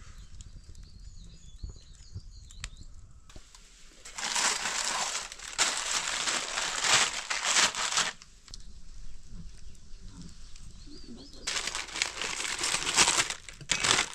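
Food sizzling in hot oil in a pan, loud for about four seconds starting a few seconds in, then again for a couple of seconds near the end.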